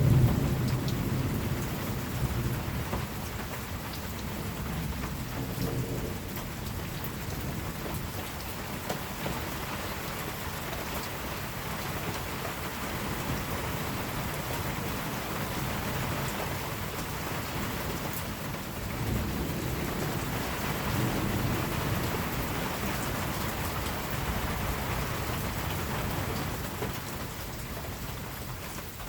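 Steady rain falling, with low rolls of distant thunder: the loudest right at the start, a weaker one around five seconds in, and a longer, drawn-out one from about nineteen to twenty-three seconds in.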